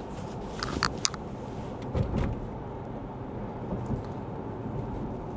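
Steady low road and tyre noise inside the cabin of a moving Lexus ES 350 F Sport, with a few sharp clicks about a second in and a soft low thump around two seconds.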